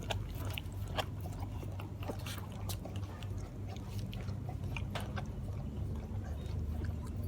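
A dog chewing, with irregular crunchy clicks over a steady low hum.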